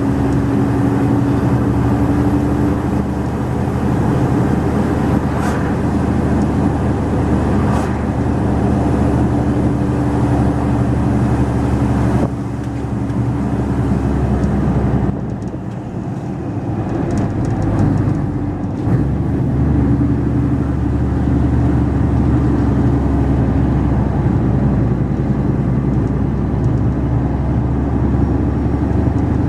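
Mercedes-Benz Actros 2546 truck engine running steadily while driving. It briefly eases off about halfway through, then picks up again.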